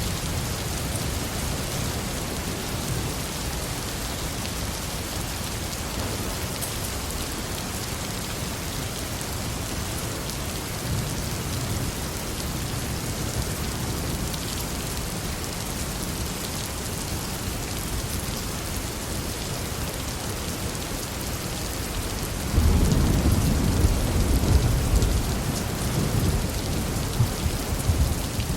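Heavy rain falling steadily, with a low rumble of thunder under it. Near the end a much louder peal of thunder breaks in suddenly and rolls on.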